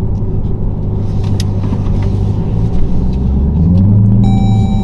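2023 Dodge Durango SRT Hellcat's supercharged 6.2-litre V8 on its stock exhaust, running as the SUV drives, with the engine note rising as it accelerates about three and a half seconds in. A steady high tone joins near the end.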